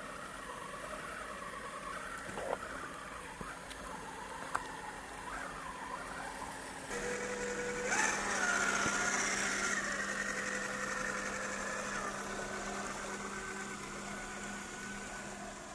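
Electric motor and gearbox of a 1/10-scale RC crawler truck whining, rising and falling in pitch with the throttle, with a few clicks. About seven seconds in the sound changes to a steadier, louder whine.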